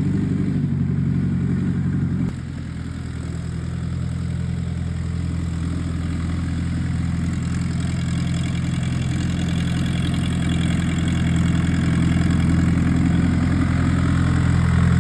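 Fendt tractor's diesel engine running steadily at idle. About two seconds in, the note changes suddenly and drops in level, then slowly grows louder.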